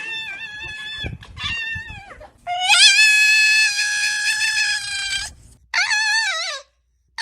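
An animal's high-pitched, drawn-out cries: a few short calls, then one long steady cry of about two and a half seconds, then a shorter wavering one near the end.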